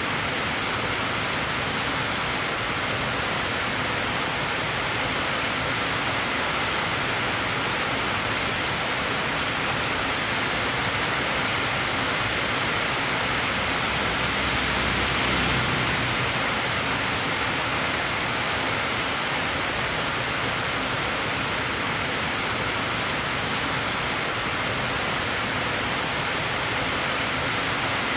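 Steady rain sound used as white noise for sleep: an even, unbroken hiss of rainfall, swelling slightly about halfway through.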